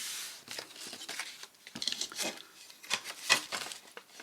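Paper being handled and worked on a craft desk: a string of light rustles, taps and scratchy strokes, the sharpest a little past three seconds in.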